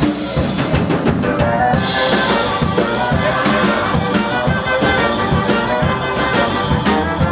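Live swing band playing: brass horns carry the tune over a steady drum-kit beat.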